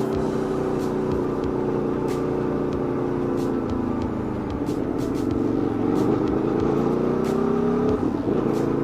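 Aprilia Tuono V4 motorcycle's V4 engine running on the move. The engine note holds steady, sags about four seconds in, then climbs steadily as the bike accelerates, with a brief break near the end.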